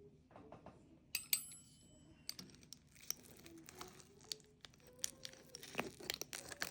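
Crackling and clicking of a crispy baked pizza crust being cut, a run of short crunches that grows a little louder near the end.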